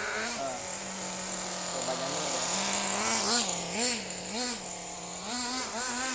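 Small nitro RC buggy engine running, its pitch rising and falling again and again as the throttle is blipped.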